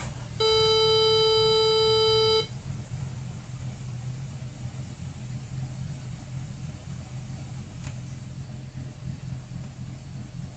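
Boat's inboard engines idling steadily with a low hum. About half a second in, a loud steady beep sounds for about two seconds over the engine, then stops.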